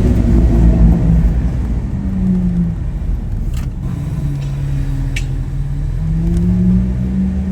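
Lamborghini Aventador SV's V12 running through a Capristo exhaust, its pitch dropping back from a rev at the start, then holding steady and climbing slightly near the end.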